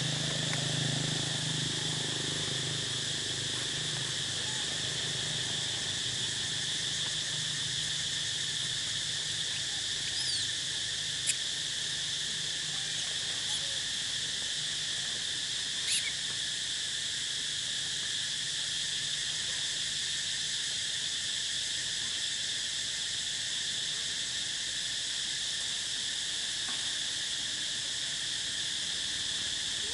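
Steady chorus of insects keeping up an unbroken high-pitched drone, with a low hum fading out over the first few seconds and a couple of brief clicks near the middle.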